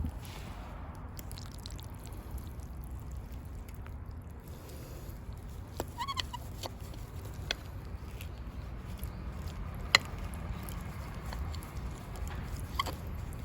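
Outdoor ambience with a steady low rumble, through which a bird calls briefly about six seconds in and again near the end; a single sharp click comes about ten seconds in.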